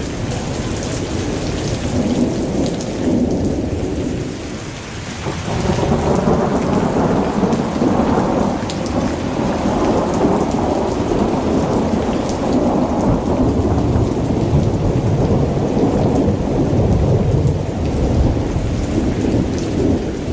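Thunderstorm: thunder rolling in a long, continuous rumble over steady rain. The rumble eases briefly and then swells again about five seconds in.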